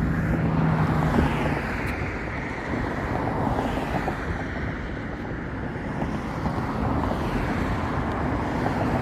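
Road traffic going by, a steady rush of vehicle noise that swells and fades, with a low engine hum near the start and wind on the microphone.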